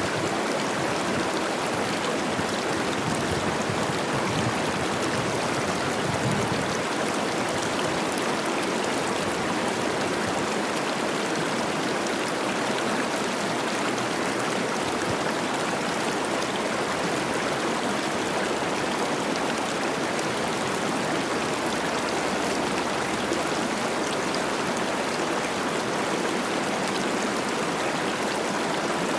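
The Cache la Poudre, a Rocky Mountain river running high with spring snowmelt, rushing and babbling over rocks in a steady, even wash of water noise.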